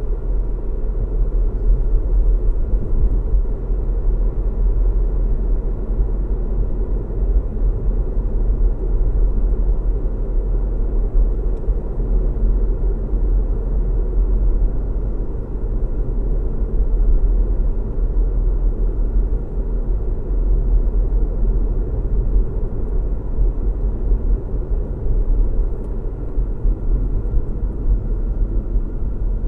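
A car driving at steady speed: a continuous low rumble of road and engine noise, strongest in the deep bass, unchanging throughout.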